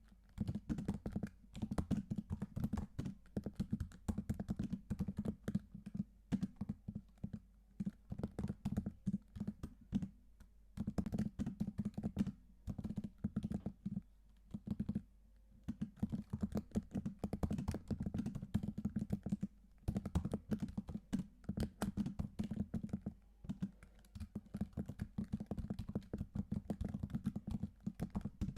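Typing on a computer keyboard: fast, irregular key clicks in runs of a few seconds, broken by short pauses.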